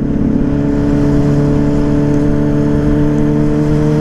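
A 2009 Yamaha Fazer 600's inline-four engine, fitted with an aftermarket WR slip-on exhaust, running steadily under way, its pitch rising slowly as the bike gently gains speed. A rush of wind noise sits under the engine.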